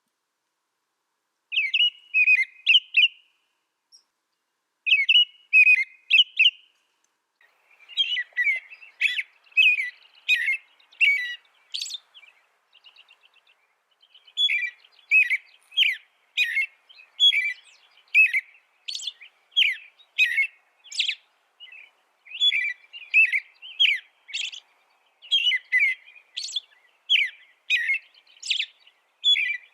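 A songbird singing: rapid, high chirping notes, first in two short phrases, then in longer almost unbroken song from about a quarter of the way in, with a brief pause halfway through that holds only a faint quick trill.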